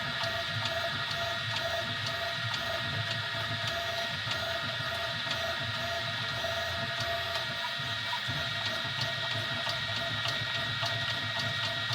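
Easythreed X2 3D printer running mid-print, its stepper motors giving a steady whine with several held tones and faint regular ticking.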